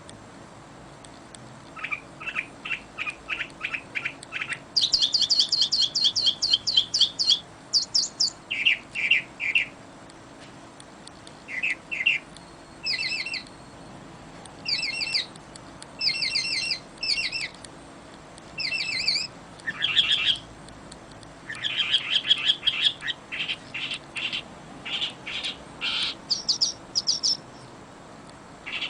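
Songbirds singing: repeated phrases of fast, evenly spaced chirps and trills at several pitches, with short pauses between phrases.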